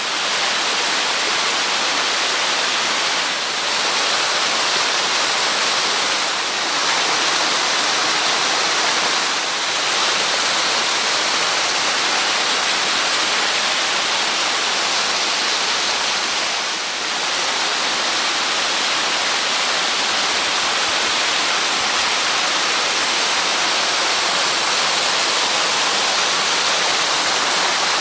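Water of a small waterfall, about 6 m high, pouring in a loud, steady rush that dips briefly a few times.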